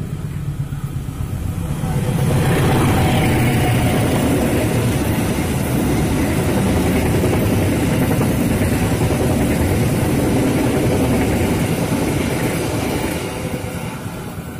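Passenger train passing close by: the rumble and rattle of its wheels on the rails swells about two seconds in, holds loud and steady, then fades near the end.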